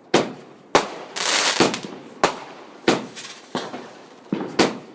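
Fireworks going off in quick succession: about eight sharp bangs, roughly one every half second, with a loud crackling hiss about a second in.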